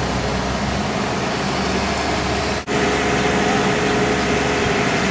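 Heavy engine running steadily, with a brief break about two and a half seconds in, after which a steadier hum continues.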